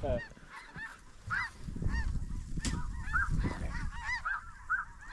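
A flock of snow geese calling: many short, high-pitched honks overlapping continuously.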